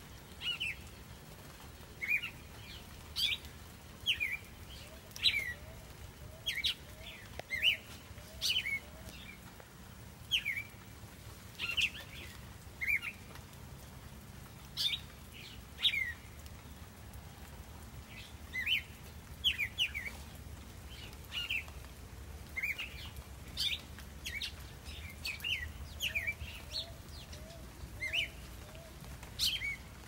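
A bird calling from the trees: sharp chirps that slide down in pitch, repeated about once a second, sometimes in quick pairs. Twice, a faint run of quick low notes comes in underneath.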